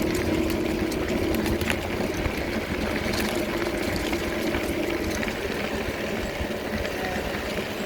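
A vehicle's engine running steadily on the move, a low rumble with a held hum and light rattling ticks.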